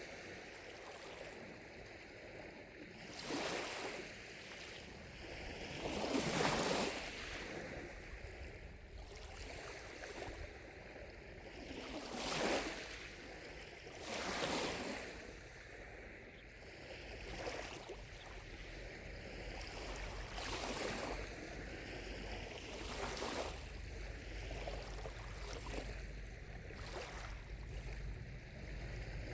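Small lake waves lapping at the shore: a soft wash that swells and falls away every two to three seconds.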